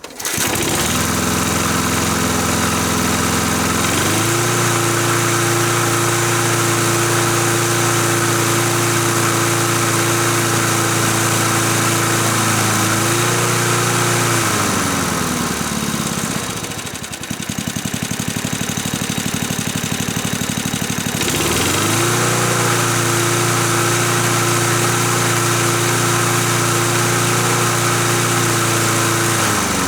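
Small single-cylinder lawn mower engine catching on a pull start and running, first at a low speed, then speeding up to a steady run about four seconds in. It slows down noticeably around the middle, picks back up to speed about 21 seconds in, and starts winding down right at the end.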